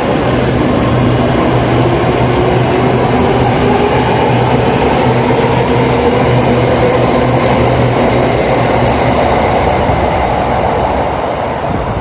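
Electric train running, a steady rumble with a motor whine that rises in pitch over the first several seconds as it speeds up.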